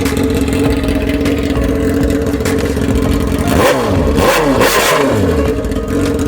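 Motorcycle engine running steadily, then revved up and back down a couple of times about halfway through.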